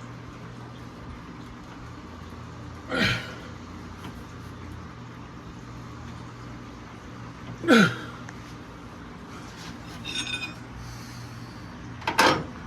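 A man grunting with effort three times, each a short falling grunt, as he heaves on a wrench against a seized V8 engine's crankshaft bolt. A brief high-pitched squeak comes between the last two grunts.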